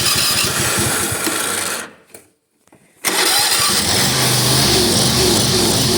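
Small gas lawn mower engine running roughly, cutting out about two seconds in, then running steadily again from about three seconds in.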